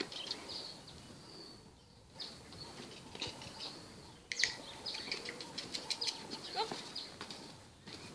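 Small birds chirping and twittering, with a few short sharp clicks, the loudest about four and a half seconds in.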